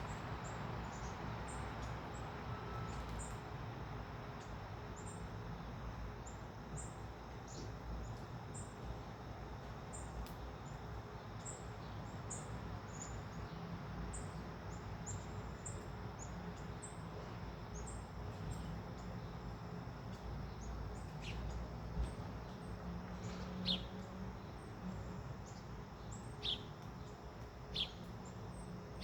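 Small birds chirping: a steady run of faint, very high short chirps, with four or five louder, sharp chirps in the last several seconds, over a low steady rumble.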